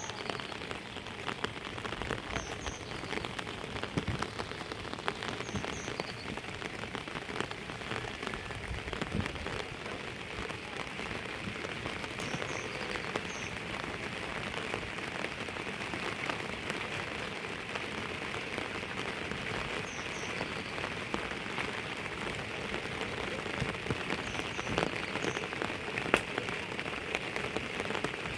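Steady rain falling, with many close drop hits ticking through it.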